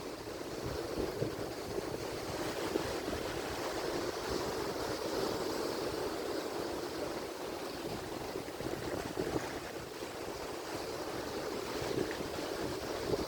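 Atlantic Ocean surf breaking and washing ashore in a steady, continuous wash, with wind rumbling on the microphone.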